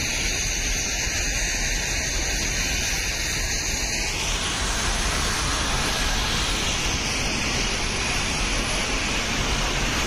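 Nilgiri Mountain Railway toy train running on the descent: a steady, loud rushing noise of the moving train.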